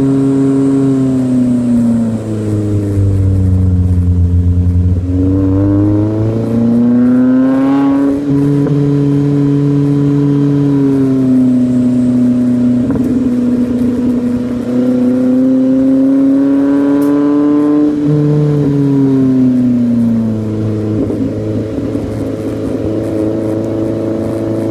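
Exhaust note of a Subaru Pleo RS's small four-cylinder engine through a Go-jigen aftermarket muffler, with a catalyst-less mid pipe. The engine speed sinks over the first few seconds, climbs again, holds, rises once more and falls back near the end, in slow smooth sweeps.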